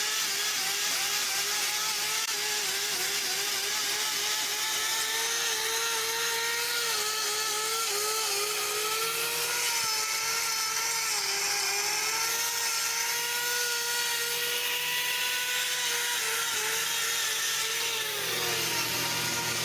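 Electric power tool, such as a hoof-trimming grinder, cutting a cow's hoof. Its motor pitch wavers as the disc is pressed into the horn, over a steady grinding hiss, and the pitch falls away near the end as the motor winds down.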